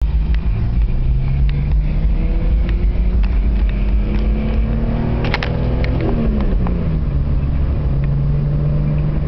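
BMW E46 M3's 3.2-litre S54 straight-six engine running, its revs climbing slowly and then dropping back about six to seven seconds in, with a few sharp clicks about five seconds in.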